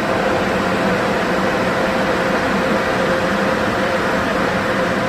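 Steady rushing machine noise with a constant hum, heard from inside a car in a car wash tunnel.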